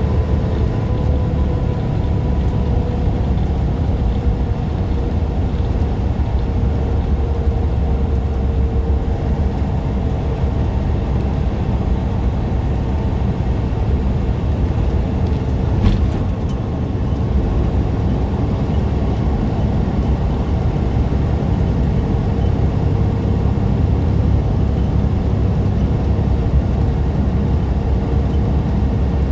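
Tractor-trailer driving on the road: a steady low engine and road rumble with a faint steady hum over it, and a single click about sixteen seconds in.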